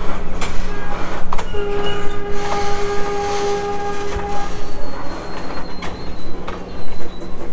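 Freight train of covered hopper cars rolling past, its wheels clacking over rail joints. A steady held tone sounds for about three seconds in the middle, and a faint high squeal runs near the end.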